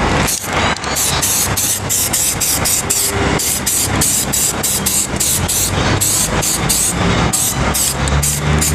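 Aerosol spray can of etch primer hissing in quick short bursts, about three a second, as light coats go onto a steel wheel. A steady low engine hum runs underneath.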